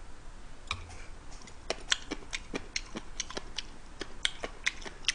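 Close-miked chewing with wet mouth clicks and smacks: a run of sharp, irregular clicks, several a second, busier after the first second and a half.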